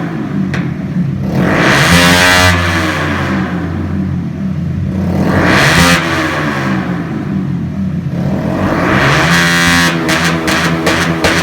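Bajaj Pulsar 150's single-cylinder four-stroke engine, breathing through a loud Tech Hardy shorty exhaust, is revved up and let fall back twice, then settles. Near the end a run of sharp pops sits over the running engine.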